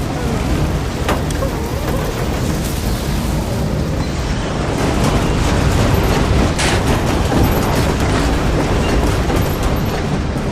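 Tornado wind sound effect: a loud, steady, rumbling rush of wind, with sharp cracks about a second in and again near seven seconds.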